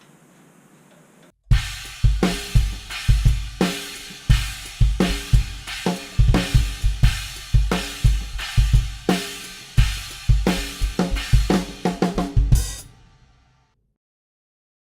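Drum kit played after a short near-silent start: a fast beat of kick drum, snare and cymbal hits. It features an 18-inch Zildjian china cymbal with holes drilled in it as a prototype. The beat ends on a final hit that rings out and cuts off abruptly.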